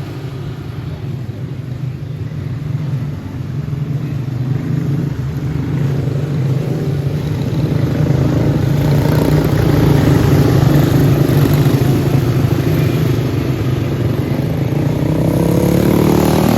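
Racing go-kart engines running steadily, growing louder about halfway through as the karts come closer.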